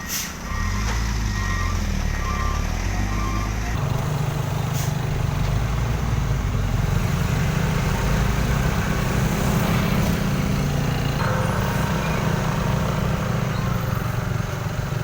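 Heavy truck's engine running with a deep, steady rumble, with a reversing alarm beeping about every 0.7 s for the first three and a half seconds.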